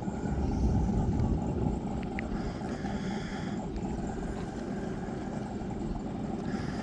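A car engine's steady low rumble at a land-speed racing start line, a little louder in the first couple of seconds.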